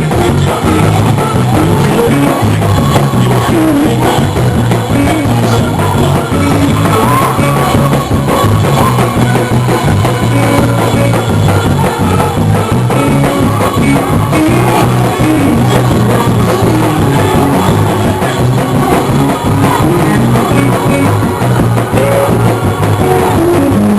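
Loud live church praise-break music with bass and drums, and singing or shouting over it.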